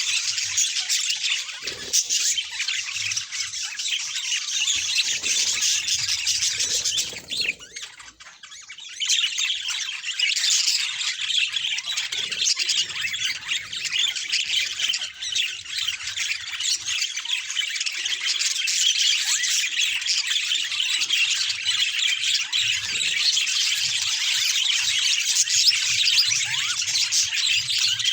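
Several budgerigars chattering continuously, a dense mass of overlapping high calls, with a short lull about eight seconds in.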